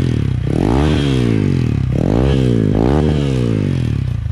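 Hero XPulse 200's single-cylinder engine breathing through an aftermarket Akrapovic slip-on silencer, revved in about three throttle blips that rise and fall, with a deep, bassy exhaust note. The silencer is only wrapped onto the stock bend pipe as a makeshift fit.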